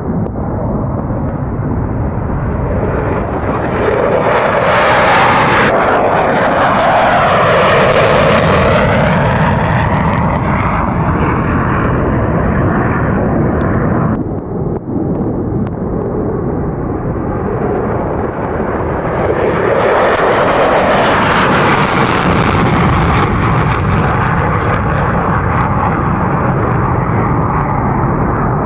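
Military jet aircraft taking off, a loud engine roar that swells and shifts in pitch as each one passes. There are two passes, split by an abrupt break about fourteen seconds in.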